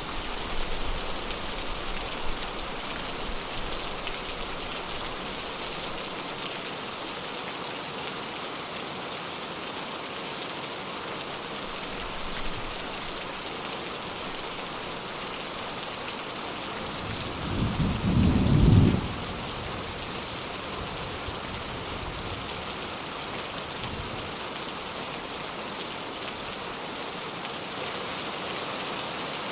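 Steady rain falling, with one loud low rumble of thunder lasting about two seconds a little past the middle.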